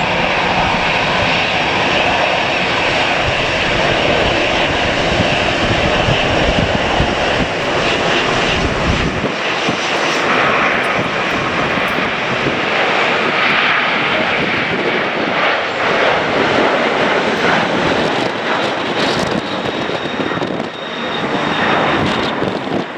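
Airliner's jet engines running loudly, a dense steady roar, with a deep low rumble that drops out about nine seconds in.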